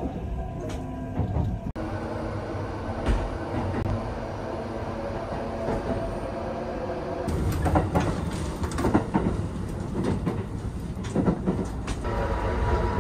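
Running noise of a Kintetsu 80000 series Hinotori express train heard from inside the car while under way: a steady low rumble, with a run of sharp knocks and rattles in the second half.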